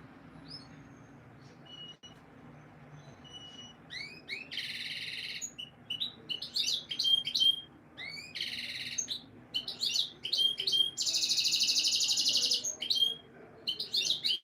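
Male canary singing: a few sparse chirps, then from about four seconds in, song phrases of quick trills and sharp chirps, with a long buzzing trill near the end.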